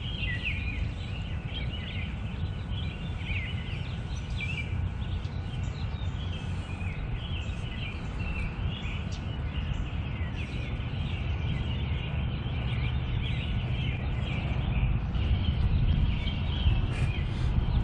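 Outdoor birdsong: several birds chirping and singing in short, repeated phrases, over a steady low rumble.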